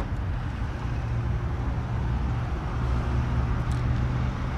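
Steady low hum of a running car engine over a noise haze.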